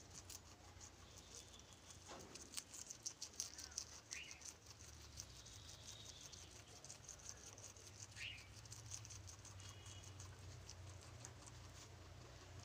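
Guinea pigs moving about: faint rapid pattering and clicking, busiest in the first few seconds, with two short high chirps about four and eight seconds in.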